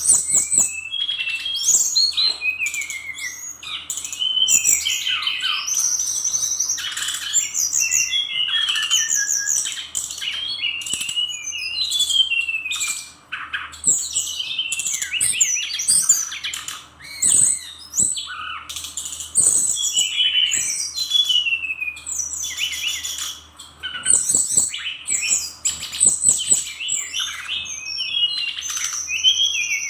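Fulvous-chested jungle flycatcher singing hard: a fast, varied stream of high-pitched whistles, trills and rapid rattling phrases, with only brief pauses.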